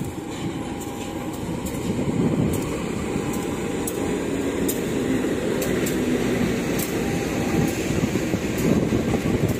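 A diesel-hauled passenger train's coaches rolling slowly past: a steady, loud rumble of wheels on rail that grows a little louder, with sharp light clicks every second or so.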